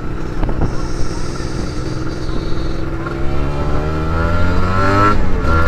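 Kawasaki Ninja RR 150's two-stroke single-cylinder engine under the rider, pulling with its pitch rising steadily for several seconds, then dropping sharply near the end as it shifts up a gear and carries on.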